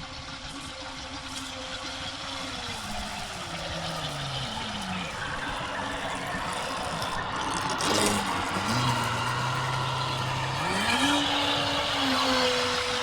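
Radio-controlled boat's electric motor whining over a steady hiss. Its pitch drops a few seconds in, stays low, then climbs again near the end as the throttle is eased off and opened back up.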